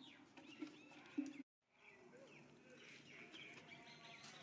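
Faint bird chirps and calls in the background, with the sound cutting out completely for a moment about a second and a half in.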